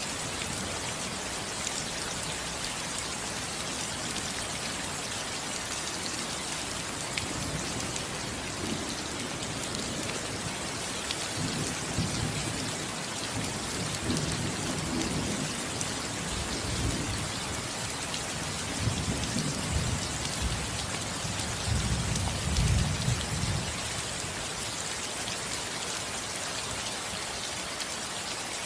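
Steady rain falling on a roof, a dense even patter. Low rolls of thunder rumble through it from about twelve seconds in, twice, the louder roll about two-thirds of the way through.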